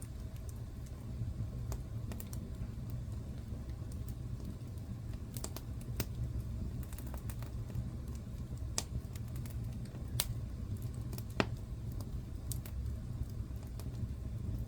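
Wood fire crackling in a fireplace: irregular sharp pops and snaps over a steady low rumble of the burning fire, with one louder pop about eleven seconds in.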